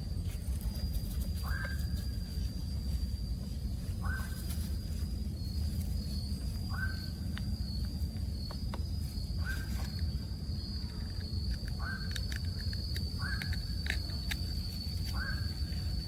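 An animal call, a short note that rises and then holds, repeated seven times at uneven intervals of one to three seconds, over a steady low rumble and a constant high whine.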